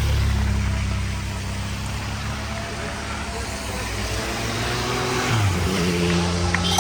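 Motor vehicle engine running close by, its pitch dropping about five seconds in.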